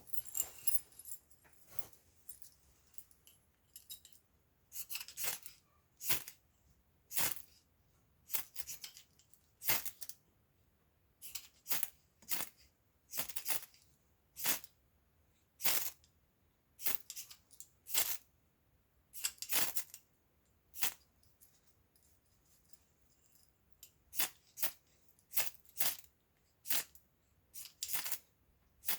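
Ferro rod fire starter struck again and again, short sharp scrapes about one a second with a pause of a few seconds near the end, while trying to light fatwood. A knock right at the start.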